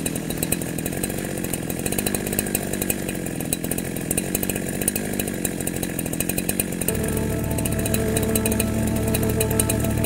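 Ogawa Pro VX8224 chainsaw idling with a rapid, even putter. About seven seconds in, music with steady held tones comes in and takes over.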